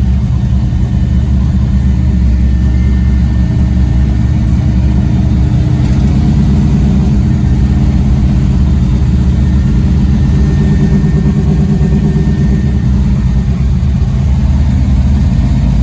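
The 1969 street-race car's engine running at a steady cruise while the car drives along, a constant low drone mixed with road noise.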